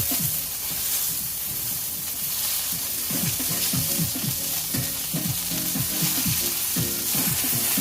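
Ground chicken burger patties sizzling steadily in oil on a hot flat top griddle. Background music with a low beat plays underneath.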